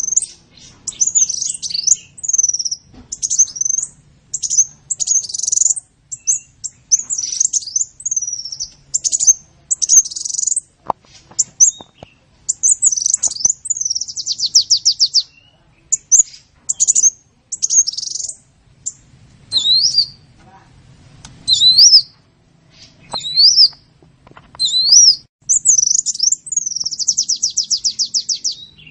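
Sunbird singing: a fast stream of high-pitched chirps and twittering phrases, broken by rapid trills about halfway through and near the end, with a few swooping up-and-down notes around two-thirds of the way in.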